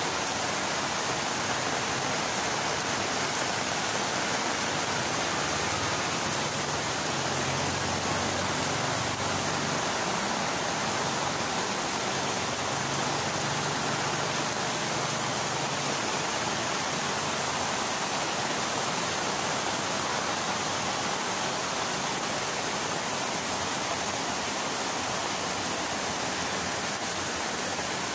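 Steady rain falling on garden foliage and pots, an even, dense hiss that does not let up.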